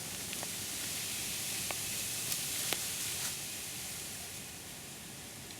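Steady rustling hiss of wind in bamboo leaves, with a few faint ticks; it eases a little after about three seconds.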